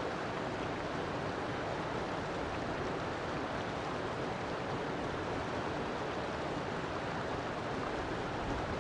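River water flowing over rocks, with a steady, even rushing.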